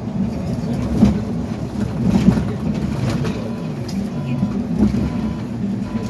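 Train carriage interior while running: a steady low rumble with a couple of sharp knocks, and a faint short tone coming in twice near the end.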